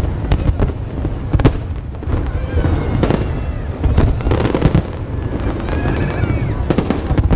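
Fireworks going off in rapid succession: many sharp bangs and pops over a continuous low rumble, with faint voices of onlookers briefly heard about two-thirds of the way through.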